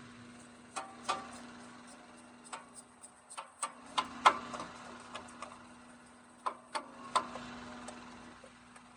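Irregular light knocks and clicks, some ringing briefly, over a faint steady hum.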